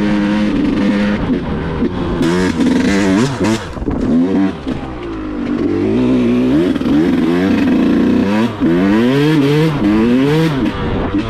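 Yamaha YZ125's 125 cc two-stroke single-cylinder engine revving hard, its pitch climbing and falling again and again. It eases off briefly about four seconds in, then gives several quick climbs and drops near the end.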